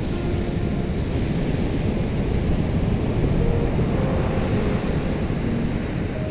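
Ocean surf washing onto a shore: a steady, full rush of breaking waves that swells a little around the middle.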